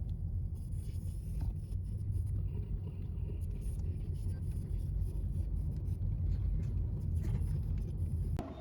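Cabin noise of a Ford Escape on the move: a steady low rumble of engine and road, which cuts off abruptly shortly before the end.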